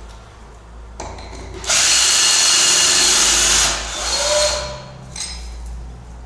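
Power drill running at full speed for about two seconds, spinning a lower nut along a threaded anchor stud, then a shorter, quieter whir as it slows.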